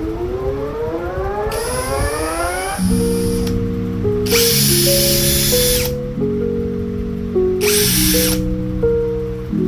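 Ingco electric drill run in three short bursts, its motor whining and hissing, the first as it speeds up, over background music with steady sustained notes.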